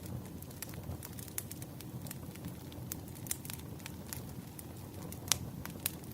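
Wood fire crackling: irregular sharp pops and snaps over a low steady rumble, with one louder pop near the end.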